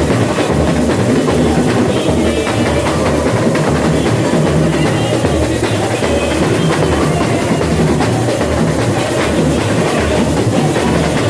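A samba bateria playing: deep surdo drums pulse in a steady rhythm under dense snare and other percussion.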